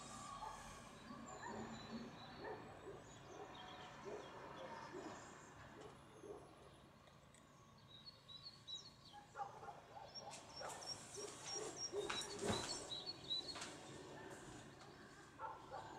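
Faint outdoor ambience with a small bird singing a run of short, high, repeated chirps in the second half, and a single sharp knock about twelve and a half seconds in.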